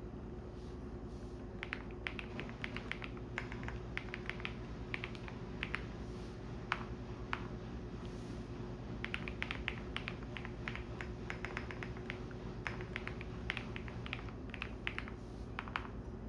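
Typing on a computer keyboard: irregular runs of key clicks with a short pause midway. Underneath is the steady low drone of a washing machine running.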